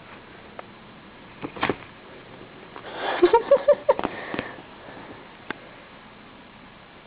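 A kitten sniffing: a quick run of short sniffs lasting about a second, midway through, after a couple of soft clicks.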